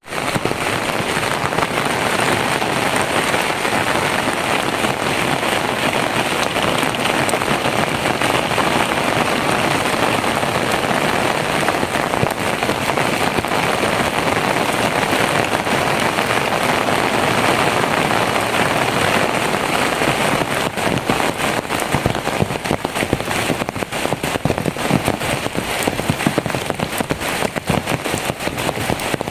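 Heavy rain falling steadily: a dense, even hiss, with separate close drop hits growing more frequent in the second half.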